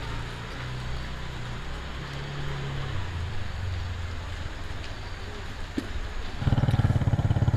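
An engine running with a steady low hum that shifts in pitch, then a louder, rapidly pulsing engine sound cuts in about six and a half seconds in.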